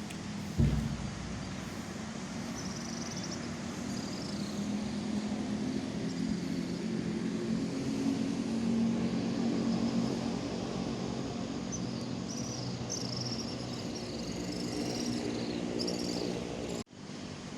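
Low engine hum with a steady pitch, swelling toward the middle and easing off, with a sharp thump just under a second in and scattered high chirps over it.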